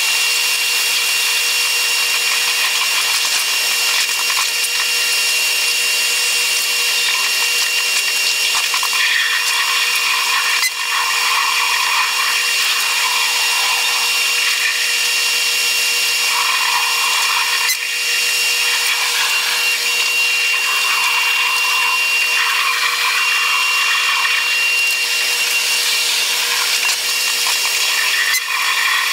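Running noise of a Taiwan Railways EMU100 electric train, fast-forwarded eight times so that it becomes a steady high-pitched whir, dipping briefly three times.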